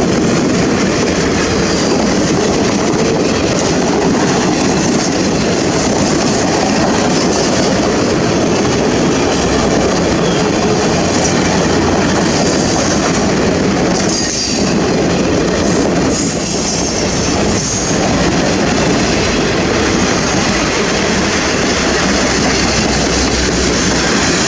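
Train rolling past close by: a loud, steady noise of wheels running on the rails.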